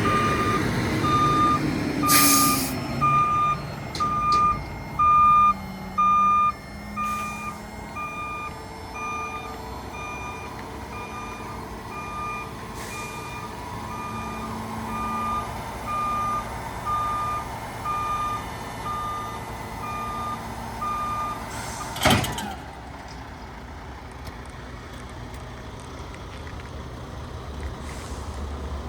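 Mack Granite roll-off truck backing up: its reverse alarm beeps about twice a second over the diesel engine running, loud at first and fainter after several seconds. The beeping stops shortly before a single short, loud blast of air from the air brakes.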